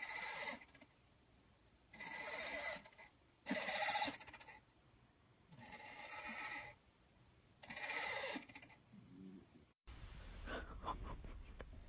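An animal calling over and over: five drawn-out, bleat-like cries, one every couple of seconds. Near the end there is a sudden cut to a few faint clicks.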